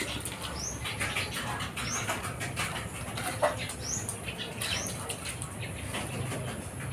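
A few short, high chirps from a small bird, a second or two apart, over faint dripping and patter of water on wet concrete.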